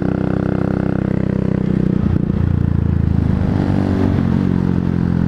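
A 125cc motorcycle engine running under way, heard from the rider's position, its note breaking off briefly about two seconds in and then picking up again.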